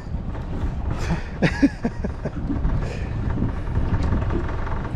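Steady low rumble on a boat at sea, with scattered knocks and clicks through it.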